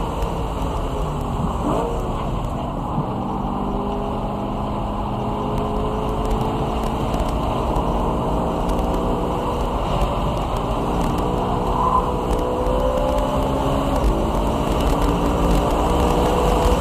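BMW E92 M3's V8 engine running at speed on a racetrack. The engine note drops during the first couple of seconds, then climbs slowly and steadily for the rest of the stretch as the car accelerates.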